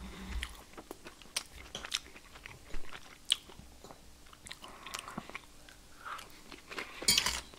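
A person chewing food close to the microphone, with scattered small clicks and a louder brief noise about seven seconds in.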